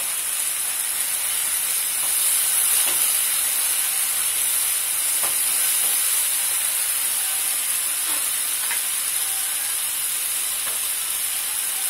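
Spiced mince, onion and tomato masala sizzling in a nonstick frying pan with a steady hiss, while a wooden spatula stirs it with a few faint scrapes.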